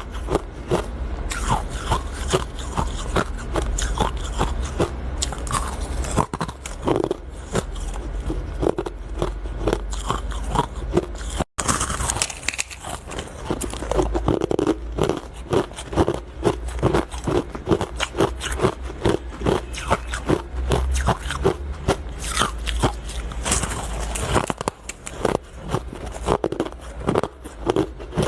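Ice being bitten and chewed close to the microphone: a dense run of irregular crunches and crackles, broken by a brief moment of silence about halfway through.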